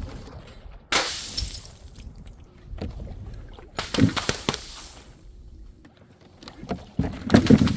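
Glass shattering in three separate crashes, about three seconds apart, each with a tinkling tail as the pieces settle.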